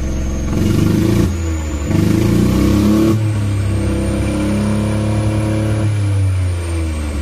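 Ford EcoSport's three-cylinder EcoBoost petrol engine, heard from inside the cabin, revved in two short surges and then held at about 4,000 rpm for a few seconds before dropping back, with a thin high whine rising and falling with the revs. The engine has a compression leak in one cylinder from a weak piston, though it no longer cuts out at idle.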